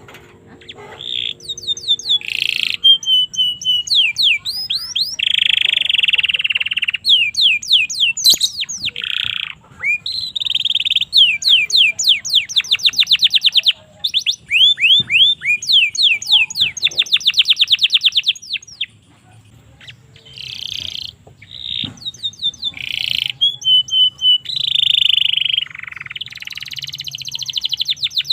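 Domestic canary singing a long, loud song of rapid trills, fast up-and-down whistled glides and buzzy rolls. There are short breaks about fourteen and nineteen seconds in.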